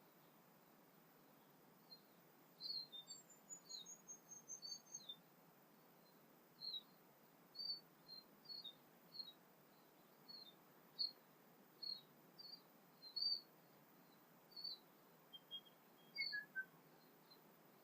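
Faint birdsong: a string of short high chirps, roughly one or two a second. A run of falling notes comes about three seconds in, and another falling run near the end.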